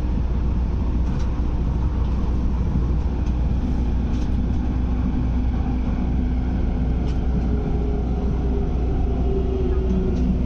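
Cabin running noise of an MTR Airport Express train in motion: a steady low rumble with faint humming tones that shift pitch partway through.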